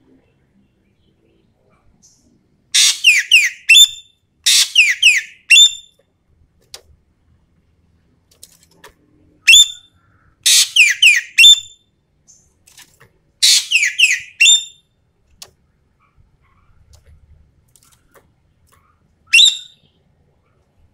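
Ekek keling Sumatera (Sumatran green magpie) calling: bursts of rapid, sharp, down-sweeping whistled notes, each burst about a second long, repeated six times with pauses between.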